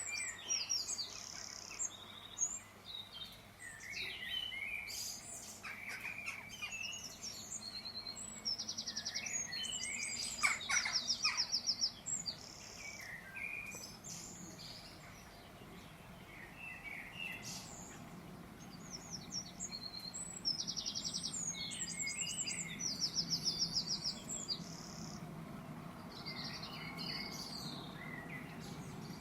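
Birds singing and chirping: short, rapid high trills repeated every few seconds, with scattered lower chirps between them.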